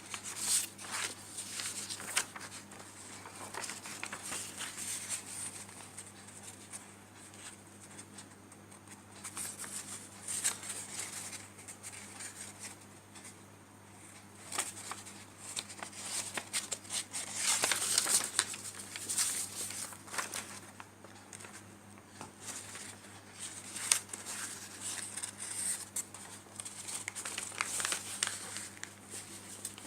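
A square sheet of paper being folded and creased by hand into an origami elementary fold: irregular crinkling and rustling with sharper swipes as the creases are pressed, over a faint steady low hum.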